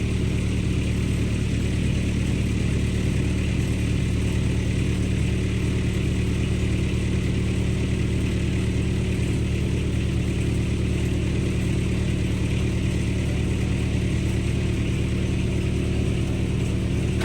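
Vehicle engine idling steadily as it warms up after a cold start.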